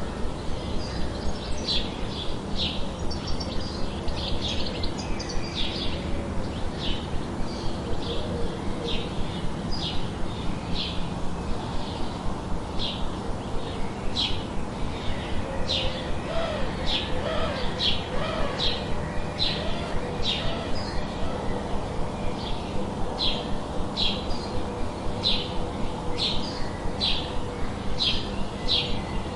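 A bird chirping over and over in short high notes, roughly once a second, over a steady hiss of added white noise.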